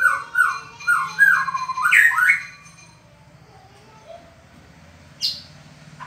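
White-rumped shama (murai batu) giving a rapid run of short, downward-sliding whistled calls, about two a second, that stops about two and a half seconds in; a single brief high note follows near the end.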